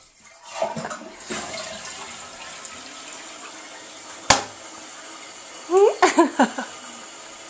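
Toilet flushing: water rushing through the bowl starts about half a second in and keeps running. A sharp knock comes about four seconds in, and a few short high-pitched squeaks about six seconds in.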